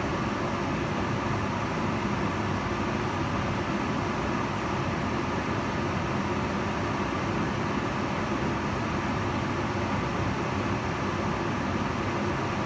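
Kitchen range hood's extractor fan running steadily: an even rush of air with a low motor hum.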